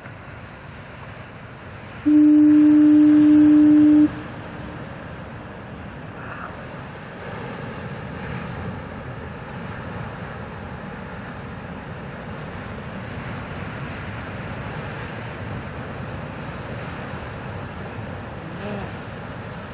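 Lighthouse foghorn sounding one steady, single-pitched blast of about two seconds, starting about two seconds in, over continuous breaking surf.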